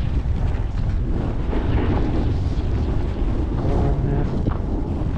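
Strong blizzard wind rushing and buffeting over the microphone, loud and steady, with no break.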